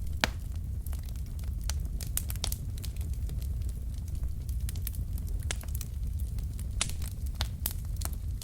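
Wood fire in a fireplace crackling: irregular sharp pops and snaps from the burning logs over a steady low rumble of the flames, with a louder pop just after the start.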